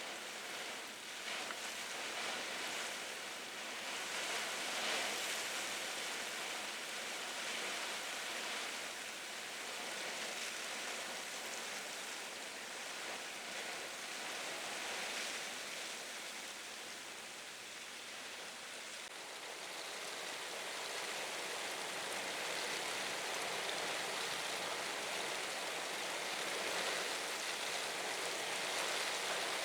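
Typhoon rain and wind: a steady hiss of heavy rain with gusts, swelling and easing slightly.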